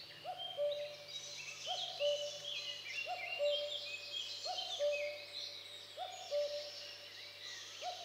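A bird's two-note hooting call repeating steadily about every second and a quarter, seven times in all, over songbirds chirping and trilling at a higher pitch.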